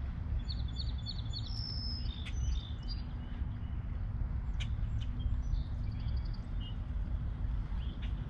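Songbirds chirping and whistling, with a quick run of short notes in the first few seconds and scattered calls after, over a steady low rumble.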